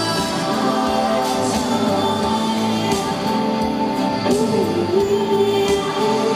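Live rock band playing, with a sung vocal over the instruments.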